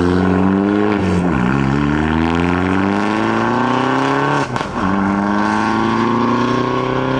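A modified car's engine accelerating hard through the gears, its pitch climbing steadily, then dropping at upshifts about a second in and again about four and a half seconds in, the second shift with a short sharp crack.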